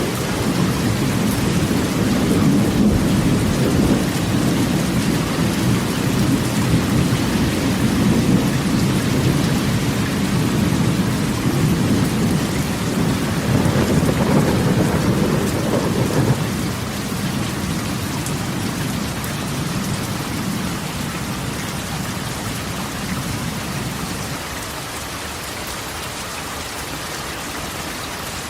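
Rain pattering steadily on a corrugated metal roof, with a long low rumble of thunder that eases about halfway through and dies away near the end.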